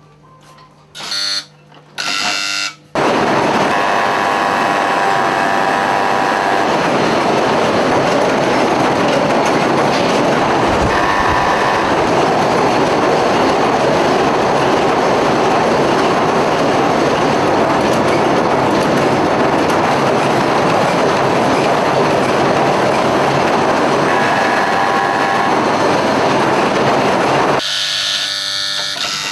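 A loud, steady rush of water that starts about three seconds in and gives way near the end.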